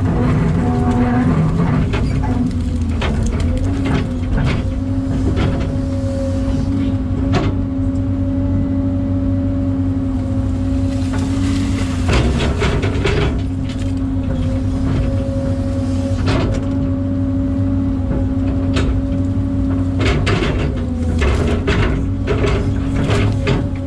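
Excavator's diesel engine running at a steady speed, with scattered knocks and clanks, most of them toward the end.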